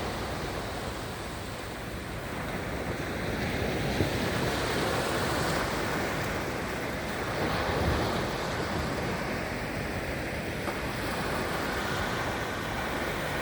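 Sea waves washing onto the shore, a steady rushing surf that swells and eases, with wind buffeting the microphone.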